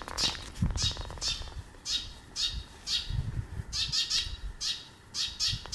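A bird calling over and over, short harsh high calls about twice a second, over low bumps and rumbles.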